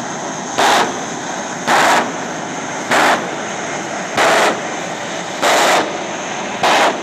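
Turbojet engine of a jet-powered Lincoln Navigator running with a steady high whine while its afterburner is lit in short pops, six loud blasts about a second apart, each lasting a fraction of a second.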